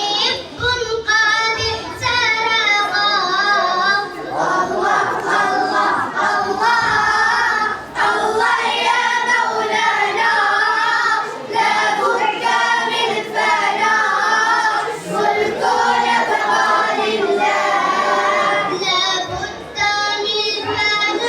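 A child's high voice singing long, wavering, ornamented phrases, with short breaks for breath between them.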